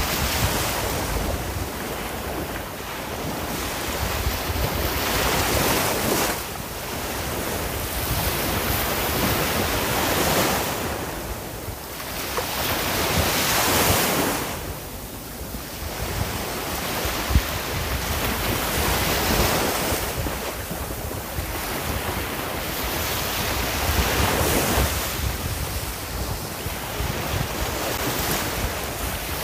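Sea waves breaking and washing in, a steady surf noise that swells and eases every few seconds, with low wind rumble on the microphone.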